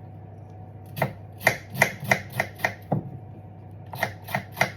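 African grey parrot making a quick series of sharp clicks, about three a second, in two runs separated by a short pause.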